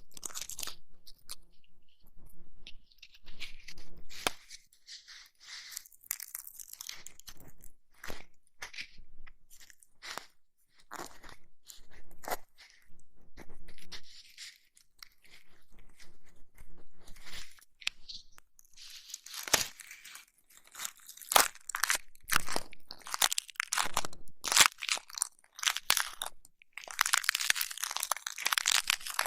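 Close-miked ASMR ear-massage and ear-cleaning sounds: irregular crackling and scratching right at the microphone, in uneven clusters, densest and loudest near the end.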